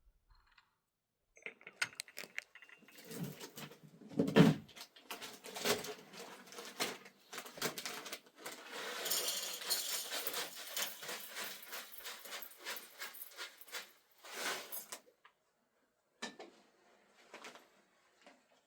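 Irregular clinks and knocks of small objects being handled, with a few seconds of continuous hiss-like noise about halfway through.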